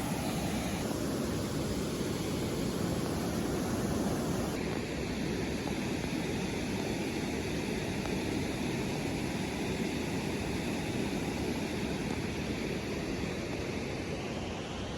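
Steady rushing of flowing creek water, a continuous even noise.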